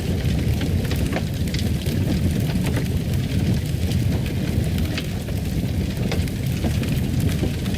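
Wood fire in a fireplace crackling: a steady low rumble of burning with many small irregular pops and snaps scattered through it.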